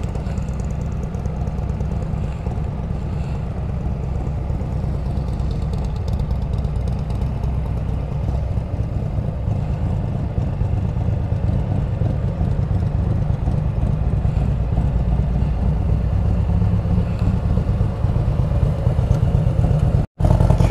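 Can-Am Spyder RT engine running at low revs as the three-wheeled motorcycle rolls slowly through town: a steady, pulsing low rumble that grows a little louder toward the end. The sound cuts out for a moment near the end.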